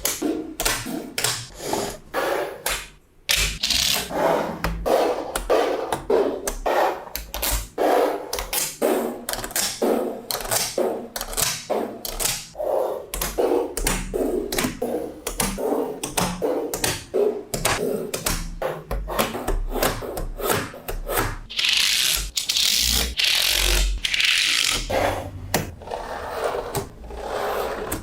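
Small magnetic balls clicking as they snap onto one another, a dense, irregular run of sharp clicks. Near the end come a couple of longer scraping, rattling stretches as the balls slide against each other.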